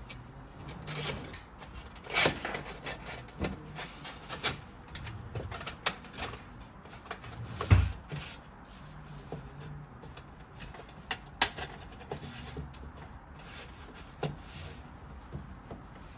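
Irregular knocks, clicks and rubbing of small hard objects being handled, with one heavier thump about eight seconds in.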